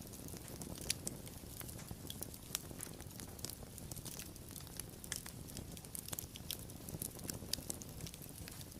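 Wood fire crackling, with irregular sharp pops and snaps over a low steady rumble of the flames; the loudest pop comes about a second in.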